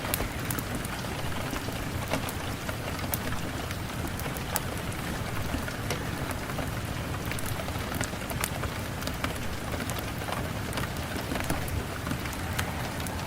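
Steady rain, with scattered sharp crackles and pops from a wood fire throughout.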